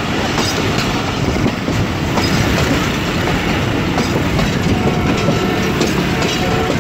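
Passenger train coaches running over the rails while rounding a curve, heard from an open coach door: a steady rumble of wheels on track with frequent clicks and knocks.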